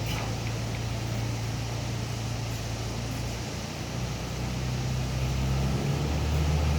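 Motorcycle engine of a floor train ride running steadily, its pitch shifting a little about halfway through and again near the end as it gets slightly louder.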